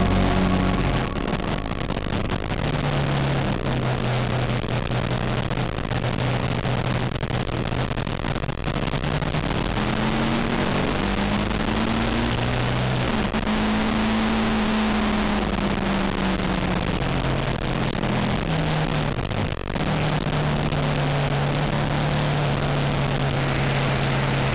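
Ducati 749's L-twin engine running hard on track, heard from onboard under heavy wind rush; its pitch climbs and falls with throttle and gear changes, with a sharp drop about three-quarters through.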